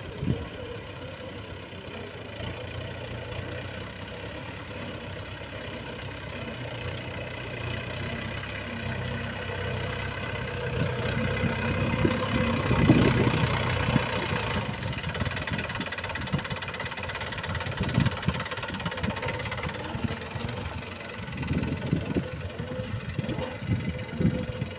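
A heavy diesel engine running steadily and swelling louder about halfway through, as if put under load. Scattered knocks and clunks follow in the second half.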